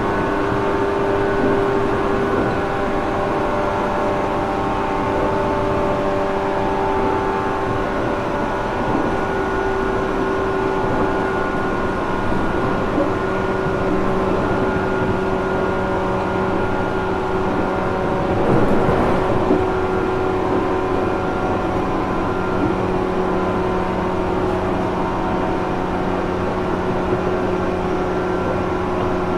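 JR Kyushu 415 series 1500 subseries EMU motor car (MoHa 414-1513), a car known for an unusual noise: a steady whine of several unchanging tones over a constant rumble, with a brief louder rush about two-thirds through.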